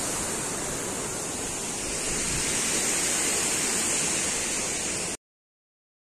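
Steady outdoor rushing noise, even and unbroken, that cuts off abruptly about five seconds in.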